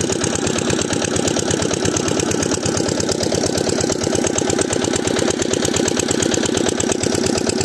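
Diesel engine driving an irrigation water pump, running steadily with a rapid, even beat of firing strokes.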